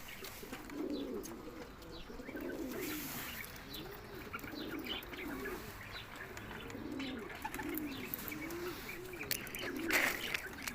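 Domestic pigeons cooing: low rolling coos repeated one after another, with a few faint higher chirps and a brief burst of noise near the end.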